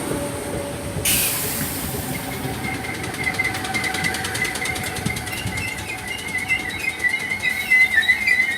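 Merseyrail Class 508 electric multiple unit pulling in to stop at the platform: a sudden hiss about a second in, then a wavering high brake squeal that grows louder as the train slows.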